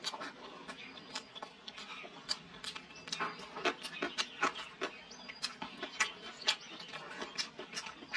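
Close-up eating sounds: chewing and mouth smacks, heard as a string of short sharp irregular clicks, two to four a second.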